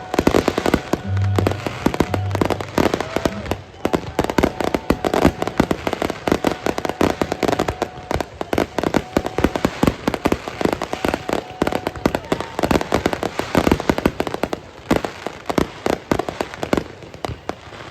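Fireworks display going off continuously: a dense run of bangs and crackles, several a second, without letup.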